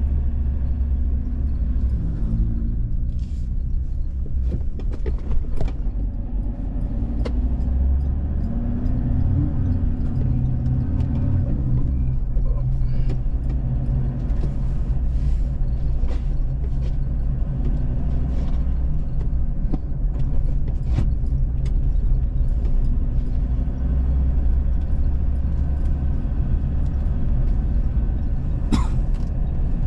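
Steady low rumble of a moving road vehicle's engine and tyres, heard from on board, with a few faint clicks and one brief sharp knock near the end.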